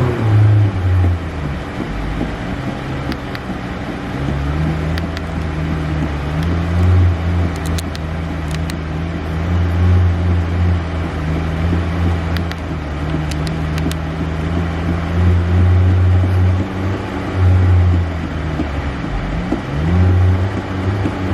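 Car engine running with a low, steady drone that swells a little as the throttle is pressed lightly, dipping briefly and picking up again near the end.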